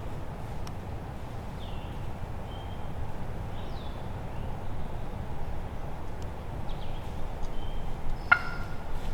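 Steady wind rush with small birds chirping faintly, then a single short wild turkey gobble near the end.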